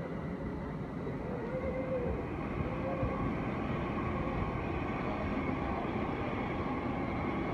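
Electric train running in a station, a steady rumble with a faint whine that bends up and down early on, then a steadier higher whine.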